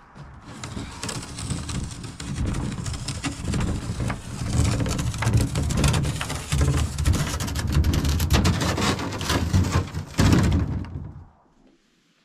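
A boat hull sliding fast down a packed-snow hill: a rushing, scraping noise with a low rumble and many small knocks and bumps, building in level, that stops abruptly about 11 seconds in.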